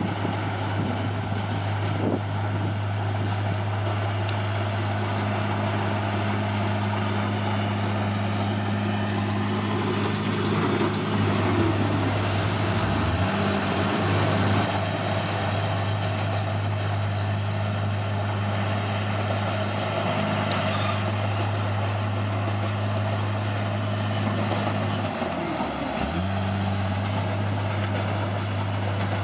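Caterpillar D6R bulldozer's diesel engine running steadily, dropping in speed briefly about halfway through and again near the end.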